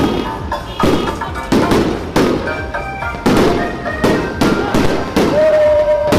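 Bottle rockets and firecrackers going off in a loud string of sharp bangs, about one or two a second, with music playing underneath.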